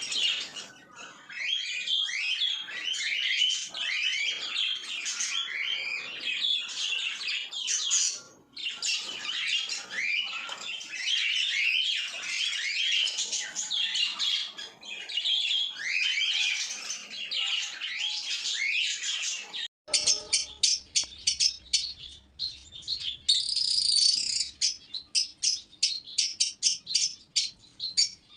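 A group of small pet parrots chirping and chattering together in a dense, overlapping chorus. About twenty seconds in, the sound cuts to a run of quick, repeated high chirps, several a second.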